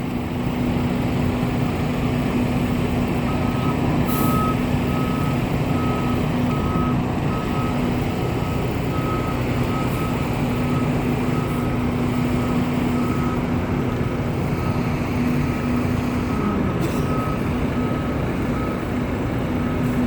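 Fire engine running steadily while its backup alarm beeps, starting a few seconds in and repeating about every three-quarters of a second as the rig reverses.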